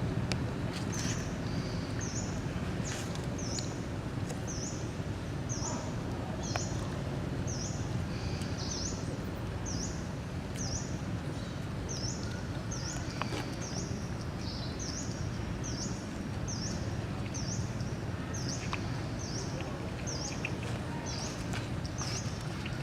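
A bird repeating a short, high call at a steady pace, a little more than once a second, over a steady low outdoor rumble.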